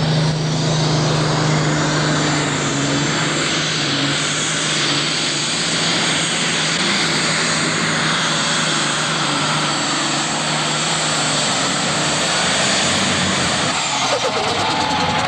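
Super Stock pulling tractor's turbocharged diesel engine running at full throttle under load, pulling the sled. It is loud and steady throughout, with a low steady tone that fades out about eleven seconds in.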